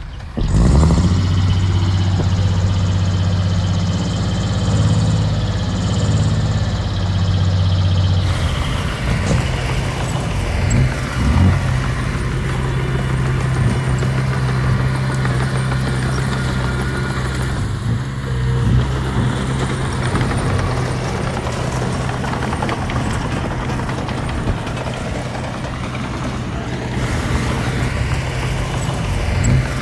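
Diesel engine of heavy earthmoving machinery running steadily under load, with its pitch changing abruptly about eight seconds in.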